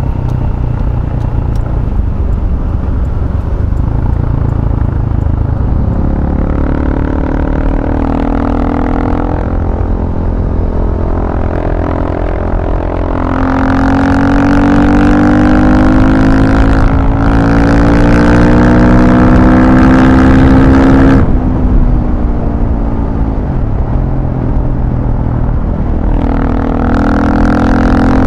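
Motor vehicle engine under way, running at moderate load, then pulling hard with a slowly rising pitch for several seconds. The throttle is cut off sharply, then the engine picks up again near the end. The long pull is the loudest part.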